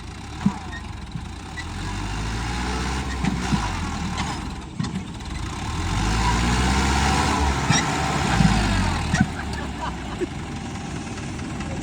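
Tractor's diesel engine running hard under load, its pitch rising and falling as it is revved, and louder from about six seconds in. It is straining to pull a trolley stuck in mud.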